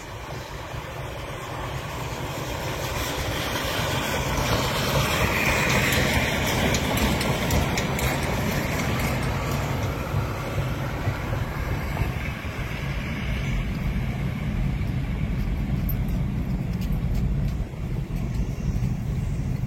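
Commuter train running on the rails, a steady low rumble that builds over the first few seconds as it gathers speed and then holds.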